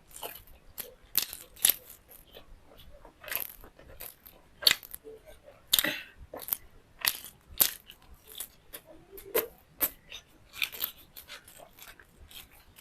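Close-miked eating: crunching and wet chewing clicks, irregular, a few each second.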